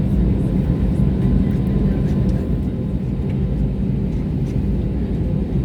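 Steady low rumble of an Airbus A320neo cabin during pushback and engine start, with a faint steady whine above it.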